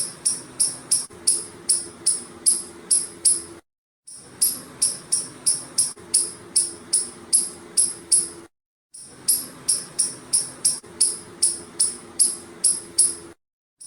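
Squirrel giving a long series of sharp, high-pitched chirping calls, about three a second, in runs broken by brief silent gaps.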